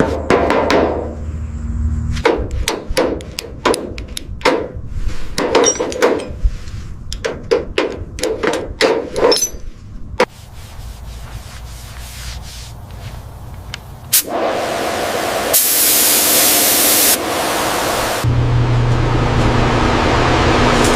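A run of sharp hammer-like knocks for about ten seconds, then a loud steady hiss, and near the end a steady motor-like hum.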